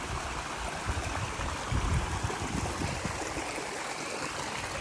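Waterfall and stream water rushing steadily, with a few low bumps about two seconds in.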